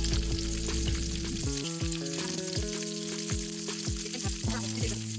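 Shrimp in spring-roll wrappers deep-frying in hot oil, sizzling steadily. Background music with a steady beat plays over it, its chords changing about a second and a half in.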